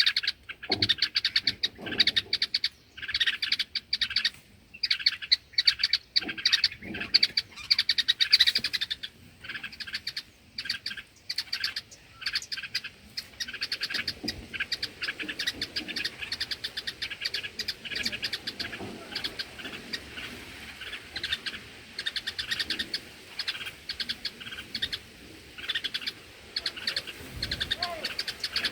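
Bulbuls chirping in quick, repeated calls, louder and more spread out in the first third, then a steady, softer chatter.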